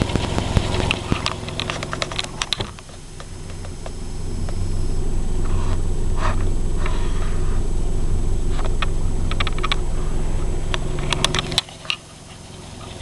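Citroën Traction Avant engine running, with clicks and rattles over the first couple of seconds. It builds to a steady, louder low hum from about four seconds in and drops away sharply a second or so before the end.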